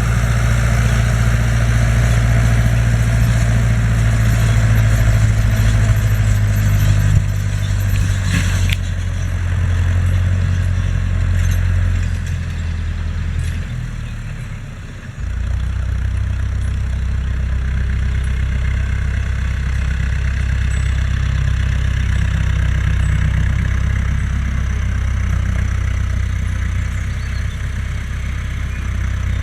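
Fendt Farmer 106 S tractor's diesel engine running steadily, with a sharp click about a third of the way in. About halfway through, the engine's sound sags and fades, then picks up suddenly again and runs on at a changed, steady note.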